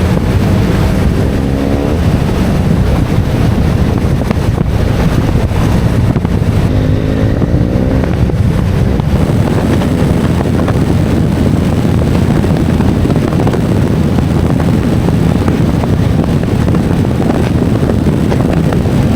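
Motorcycle engine running while riding, under heavy wind rush on the microphone, with the engine note rising as it revs up near the start and again about seven seconds in.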